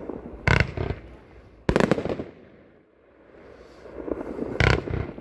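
Consumer firework cake firing its shots: loud aerial bursts bang about half a second, one and a half and four and a half seconds in, with a swelling crackle between them.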